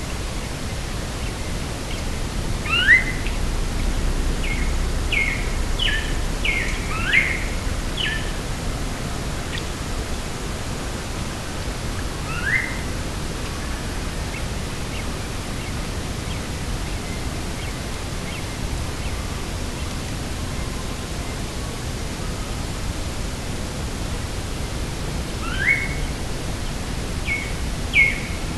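Steady rushing noise of wind and sea, with small birds calling over it: quick rising sweeps and short chirps in a cluster from about three to eight seconds in, a single call near twelve seconds, and more calls near the end.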